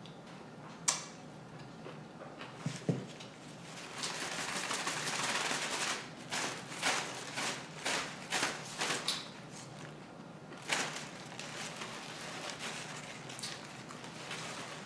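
Household handling noises: a sharp click, then a couple of knocks, followed by a stretch of rustling and a run of short rustles or shuffles about two a second.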